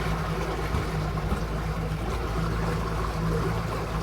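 A small boat under way, its motor giving a steady low hum with several pitches.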